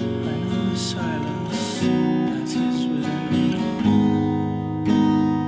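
Instrumental passage of a guitar-band song: strummed guitar chords ring on, and a new, louder chord comes in about four seconds in.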